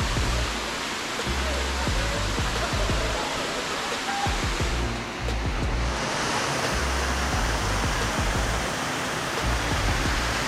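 Steady rushing roar of a tall waterfall, a dense even noise with low rumbling underneath that comes and goes.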